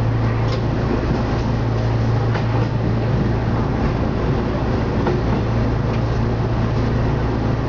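Diesel railcar running along the track, heard from inside the train at the front: a steady low engine drone with a few faint clicks from the wheels on the rails.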